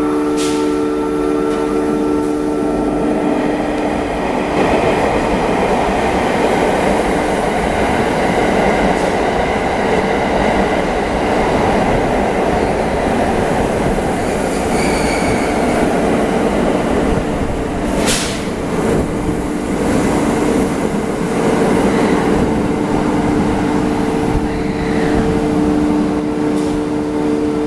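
A JR West 683 series electric limited express pulling in along the platform and slowing to a stop, its wheels and running gear rolling past close by. There is a sharp clank about eighteen seconds in, and the rolling noise tapers off near the end as the train halts. A steady hum runs underneath.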